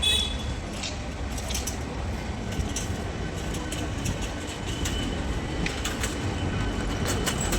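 Electric multiple-unit (EMU) local train running on the track: a steady rumble with sharp clicks from the wheels passing over rail joints.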